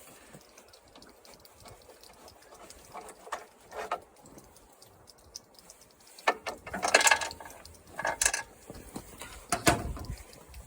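Mechanical clicking and clattering in a few short bursts, loudest between about six and ten seconds in, of hand tools and metal parts being handled while a lawn mower is worked on.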